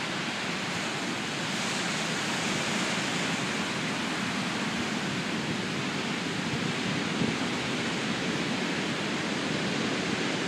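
Storm surf at high tide, waves breaking on the beach in a steady, even rush of noise.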